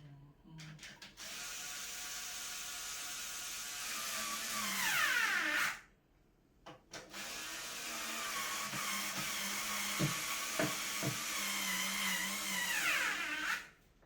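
Cordless power drill driving screws, run twice for several seconds each, the whine dropping in pitch at the end of each run before it stops. A few short knocks during the second run.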